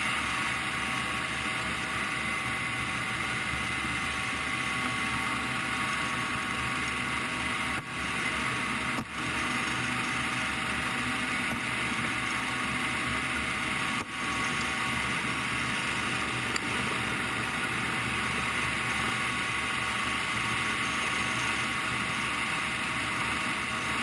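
Steady engine noise with a constant whine, dropping out briefly three times.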